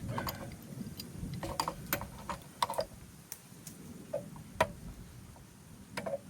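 Irregular sharp clicks and taps, about ten in all, from small brass water valves and tools being handled and unscrewed while a washing machine is stripped for scrap.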